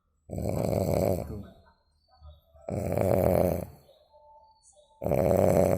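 A person snoring through the nose, three snores about two and a half seconds apart, with quieter breaths in between.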